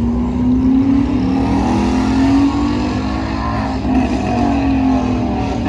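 Car engine revving loudly over a steady low rumble. The pitch climbs for a couple of seconds and drops back, then rises and falls again near the end.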